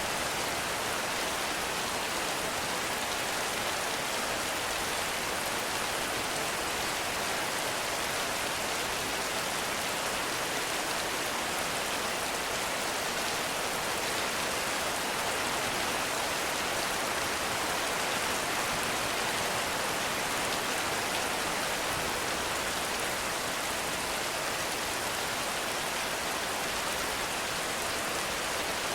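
Heavy rain falling steadily in a forest, a dense, even hiss of rain with no let-up.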